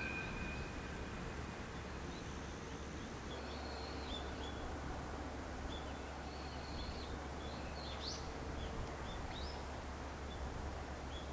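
Small birds chirping faintly now and then over a steady low outdoor rumble.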